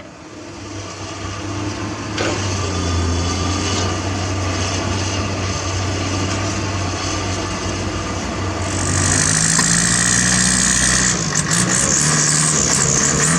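Heavy diesel construction machinery running, excavator and dump truck engines, with a low steady hum. About nine seconds in it gets louder, adding a hiss and a higher whine.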